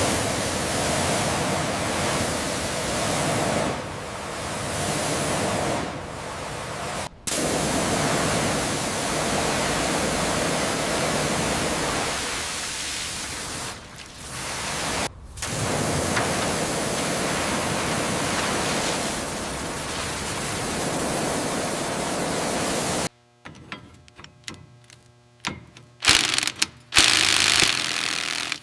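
Steady, loud hissing noise in long stretches, broken by short gaps about 7 and 15 seconds in. Near the end it cuts off suddenly and gives way to scattered clicks and knocks.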